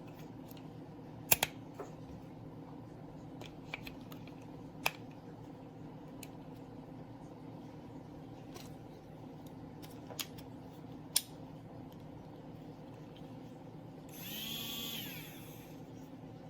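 Scattered sharp clicks and taps over a steady low hum, then near the end a brief whir lasting about a second that rises and falls in pitch.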